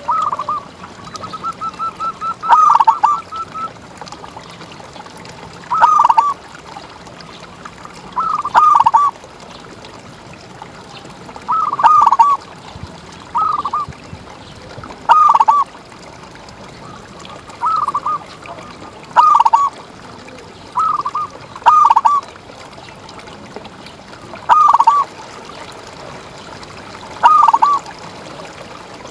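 Zebra dove (perkutut) cooing: about a dozen short coo phrases, one every two to three seconds, with a run of quick repeated notes near the start.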